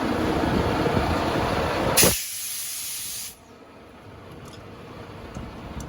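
Volvo semi truck's diesel engine running with a heavy rumble, then a loud burst of hissing air about two seconds in that lasts about a second; the level then drops sharply.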